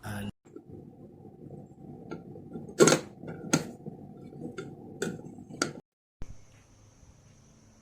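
A French press and its packaging being handled, giving five or so sharp clicks and knocks over a steady low hum. The sound drops out briefly about six seconds in, and a faint steady high tone follows.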